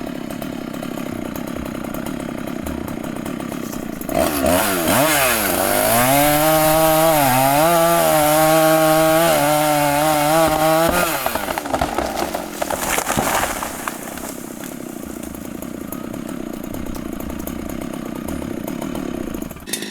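A Husqvarna two-stroke chainsaw runs steadily, then about four seconds in it revs up with its pitch swinging. It then runs at full throttle cutting wood for about seven seconds, its pitch dipping briefly several times under load, before it drops back to a lower, steady running sound.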